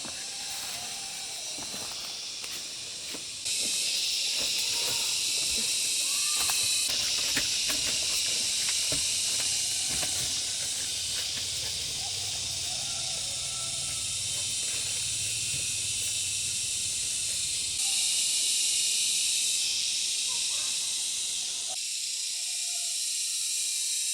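Steady high-pitched insect chorus, with a few faint bird chirps. It gets abruptly louder a few seconds in, drops back, then swells again briefly past the middle.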